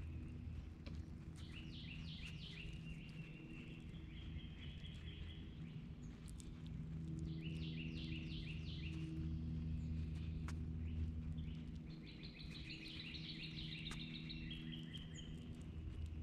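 A songbird singing three phrases, each a quick series of down-slurred notes running into a faster run of short notes, over a low steady hum.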